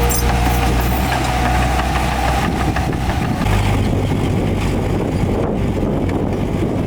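Heavy diesel engines of earthmoving machines, a bulldozer and dump trucks, running steadily. The low engine note shifts about halfway through.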